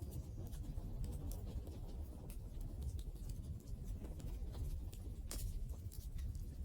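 Wood fire crackling: irregular sharp pops and snaps over a low steady rumble, with one louder pop a little after five seconds.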